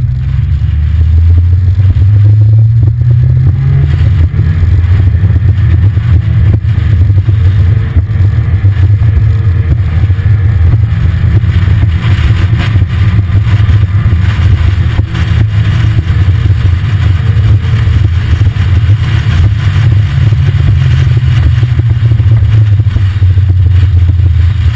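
Sports car engine running steadily under load on a climb, heard from inside the open cockpit, as a loud, continuous low rumble.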